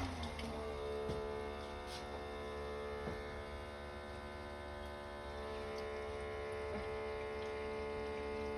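Keurig single-serve coffee maker starting up with a click and then running its water pump, a steady electric hum with a few faint ticks.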